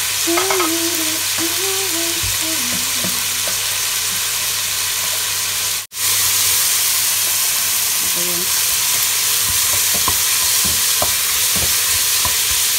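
Sliced tomatoes, onion and garlic sizzling in hot oil in a stainless steel pot while a wooden spatula stirs them, knocking and scraping against the pot now and then. The sizzle cuts out for an instant about six seconds in.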